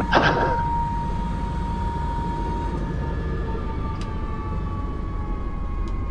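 Airbus AS350 B3 helicopter heard from inside the cockpit: a steady rotor and engine rumble under a high turbine whine of several tones, which drift slowly lower from about halfway.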